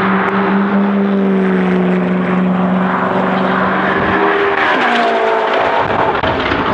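Supercar engine at speed on the circuit, holding a steady high note as it approaches, then dropping in pitch as it passes about four and a half seconds in.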